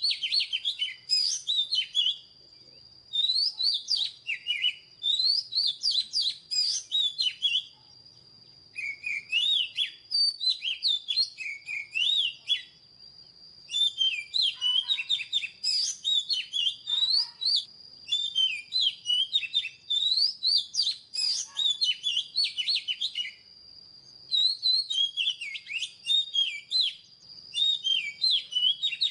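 Oriental magpie-robin singing: phrases of rapid, varied whistled notes lasting a few seconds each, broken by short pauses of about a second. A steady thin high tone runs underneath.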